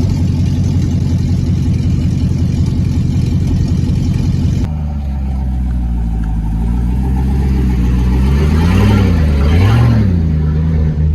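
Loud pickup-truck exhaust: one truck's engine rumbles with a fast, choppy pulse, then after a cut a second truck idles steadily and is revved twice in quick blips about nine and ten seconds in.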